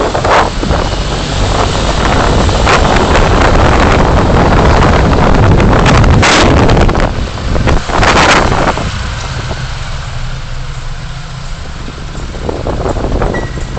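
Road noise from a moving car picked up by a dashcam: tyre and engine noise that swells over several seconds, then eases after about nine seconds, with a few short, sharp rushes of noise along the way.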